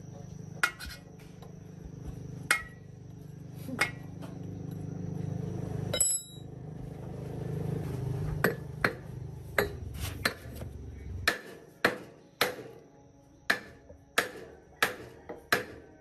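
Hammer blows on metal: a few spaced strikes, then a quicker run of about two a second in the second half. Under the first part runs a low steady hum that cuts off suddenly about eleven seconds in.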